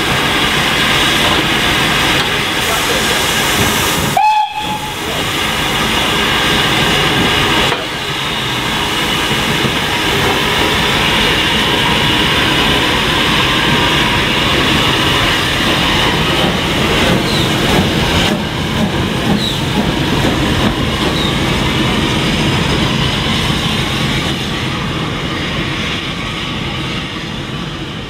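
Ex-Somerset & Dorset Joint Railway 7F 2-8-0 steam locomotive 53809 working hard: a loud, continuous rush of exhaust and running noise, fading towards the end.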